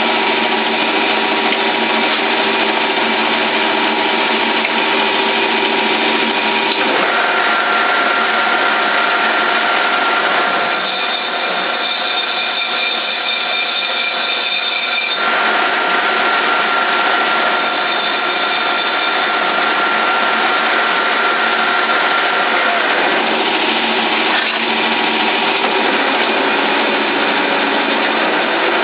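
Stanko 1K62 geared-head lathe running steadily at low speed, its gearbox giving a whine of several steady tones, while a parting tool is fed by hand into a turning bronze bushing. The mix of tones shifts a few times during the cut.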